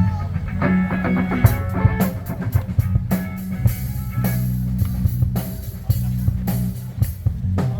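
A rock band playing live: electric guitar and bass over a drum kit, with cymbal crashes and drum hits coming in regularly from about a second and a half in.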